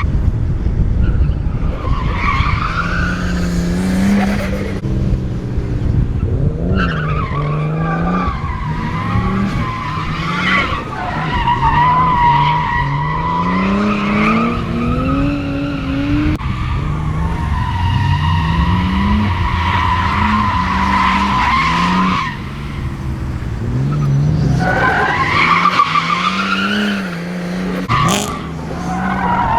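Nissan Skyline R32 drift car drifting: its engine revs up and falls back again and again while the tyres squeal in long screeches that come and go.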